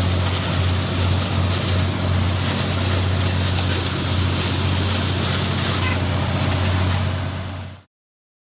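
Farmall 560 tractor running steadily, powering a feed grinder: a low engine hum under a loud rushing hiss. The sound cuts off abruptly near the end.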